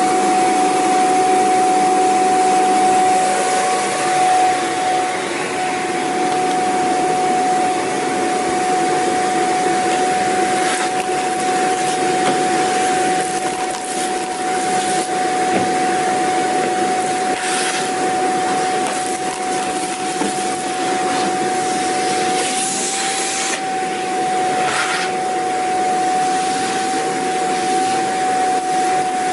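Vacuum cleaner running steadily: a constant motor whine over the rush of air, with brief swells of louder hissing now and then.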